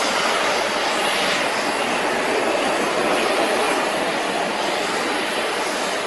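Jet engines of an Airbus A330-300 airliner, a steady, even noise that holds at the same level throughout.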